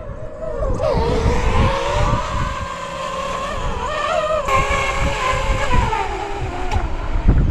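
FPV drone's electric motors whining. The pitch climbs about a second in, wavers with the throttle, and drops away near the end. Wind buffets the microphone throughout.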